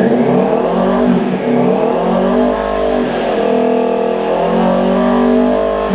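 Kawasaki Ninja 400's parallel-twin engine revved to about 6,000 RPM through an SC Project slip-on exhaust with its dB killer removed. The revs rise, sag, climb again and hold steady for a few seconds, then fall away at the end.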